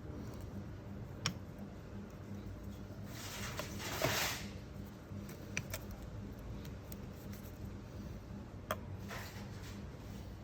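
Workshop handling sounds: a few sharp clicks of tools or metal engine parts, and a brief scraping rustle about four seconds in, over a steady low hum.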